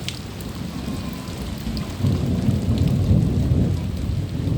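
Thunder rumbling over steady rain, the low rumble swelling about two seconds in.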